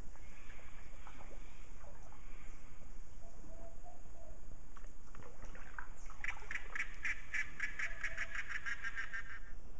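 A bird calling in a fast run of short, even notes, about six a second, for some three seconds in the second half, with fainter, scattered calls before it.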